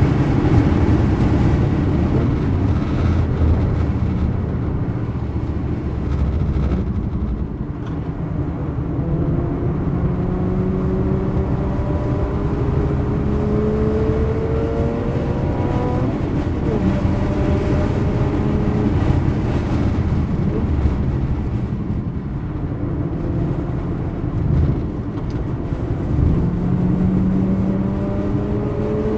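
Mazda RX-8 rotary engine heard from inside the cabin at full throttle on track, its pitch rising again and again as it pulls through the gears, easing off briefly about eight seconds in and again past twenty seconds. Road and tyre noise runs underneath.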